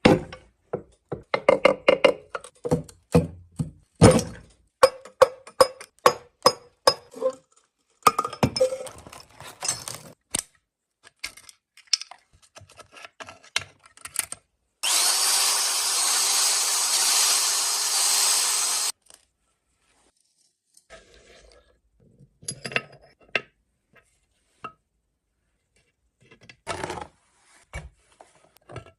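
Hand-tool work: quick scraping and tapping strokes, about two a second, for the first ten seconds. Then a loud steady hiss runs for about four seconds and cuts off, followed by a few scattered knocks.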